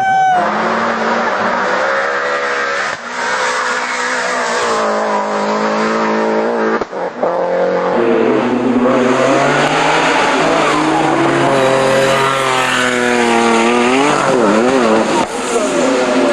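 Rally car engines revving hard at full throttle, pitch climbing and dropping through gear changes, with brief breaks in the sound at the shifts about three and seven seconds in.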